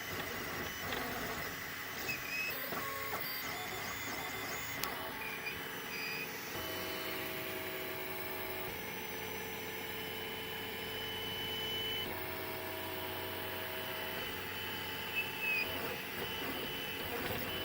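3D printer running, its stepper motors whining at steady pitches that shift every few seconds as the moves change. Short high squeaks come through several times over the whine, the squeaking fault the owner is showing.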